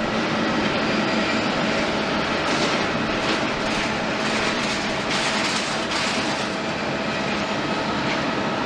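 Jet engines of a Boeing 777-300ER, its GE90 turbofans, running steadily at low power with a constant whine over a broad rush. A fluctuating hiss rises over it for a few seconds in the middle.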